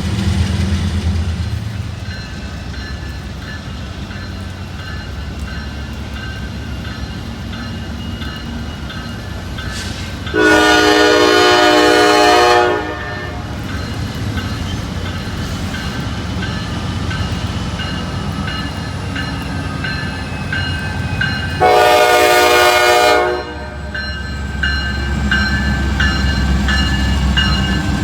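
Diesel freight locomotive sounding its air horn in two long blasts about ten seconds apart, over the steady rumble of the moving train.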